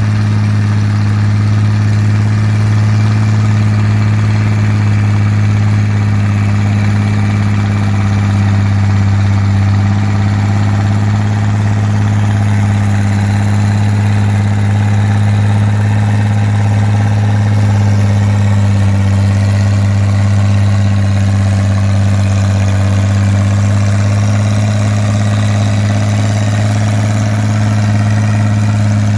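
Tractor engine idling steadily, close and loud, with an even low hum and no revving.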